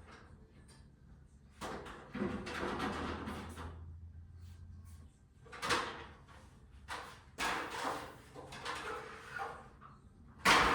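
Irregular knocks, scrapes and clatter of objects being handled and set down, with a sharp bang near the end, over a low hum that stops about five seconds in.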